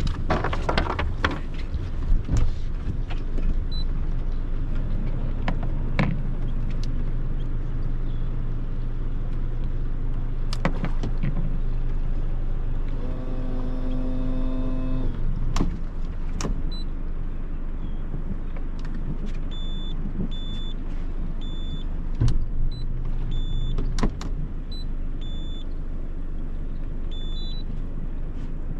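Boat motor running steadily, with scattered knocks and clunks. Midway a short pitched hum sounds for about two seconds, and in the second half a series of short high beeps repeats about once a second.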